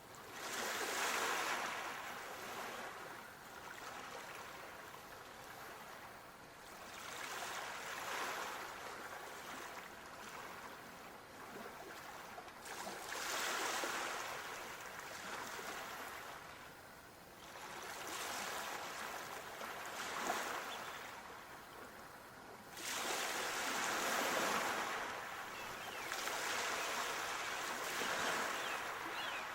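Sea waves washing onto a shore, each one swelling and then fading, about every five to six seconds.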